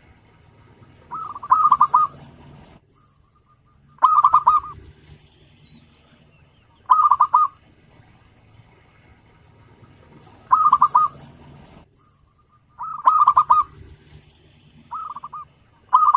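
Zebra dove (perkutut) cooing, a phrase of quick stuttering notes repeated about every two to three seconds, six times.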